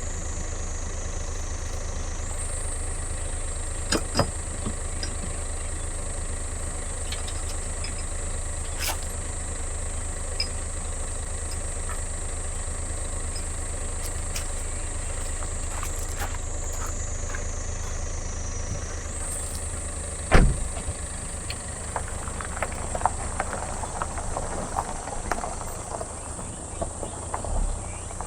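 An engine idling with a steady low hum and a high whine. About two-thirds through there is one loud thump, and irregular light crackling follows.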